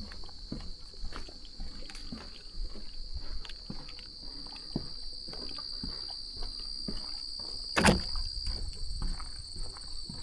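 Footsteps walking on a trail, over a steady high-pitched insect drone. One sharp knock stands out about eight seconds in.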